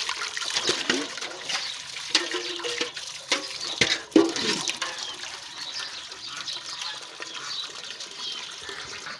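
Water running steadily from a pump outlet into a bucket, filling it.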